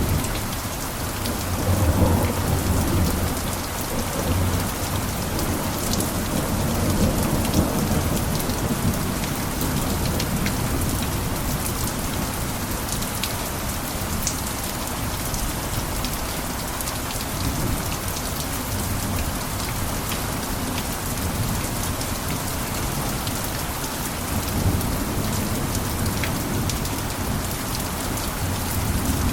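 Steady rain falling, with fine drip and patter ticks and a constant hiss. A low rumble swells about two seconds in and again around seven seconds.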